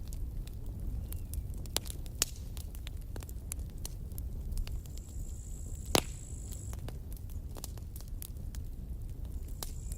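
Wood campfire crackling, with a steady low rumble of burning and many irregular sharp pops and snaps; the loudest pop comes about six seconds in.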